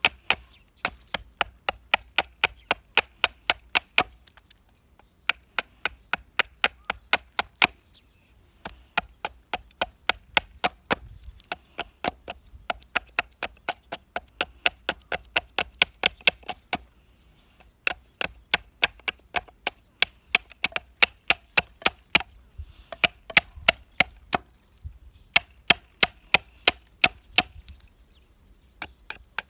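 Rapid, repeated sharp strikes on dead pine wood, about four a second, in runs of several seconds with short pauses: chopping at the wood to cut out resin-hardened fatwood.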